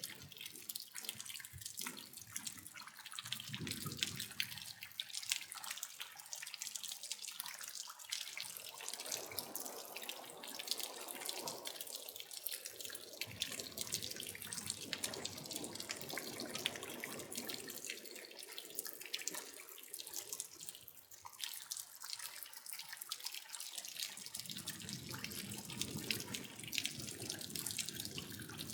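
Rain falling: a dense, steady patter of many small drops, with a lower rush of water that swells and fades at times.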